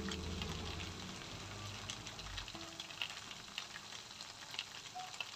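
Faint sizzling and crackling of chicken and green beans frying in a wok, with background music ending about half a second in.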